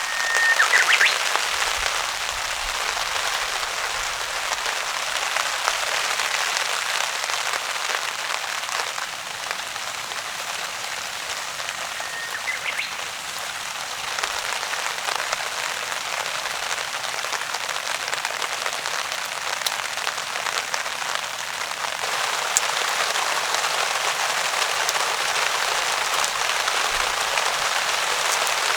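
Heavy rain falling steadily on a DD tarp, an even hiss of drops. Two brief high chirps sound over it, about a second in and near the middle.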